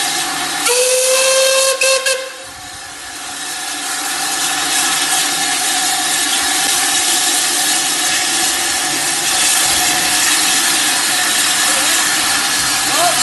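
A steam whistle gives one short blast of about a second and a half, starting about a second in, with a brief break just before it stops. A steady hiss of steam runs under it and carries on after it.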